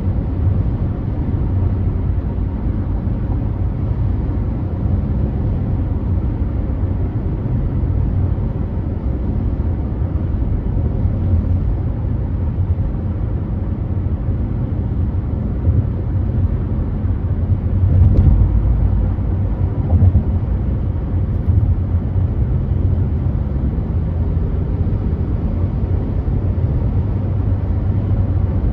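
Car driving at freeway speed: a steady low rumble of tyres and engine, with two brief louder bumps about two-thirds of the way through.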